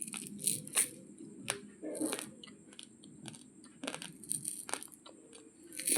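Raw basmati rice grains being chewed close to the microphone: irregular sharp crunches and cracks over a soft mushy chewing sound.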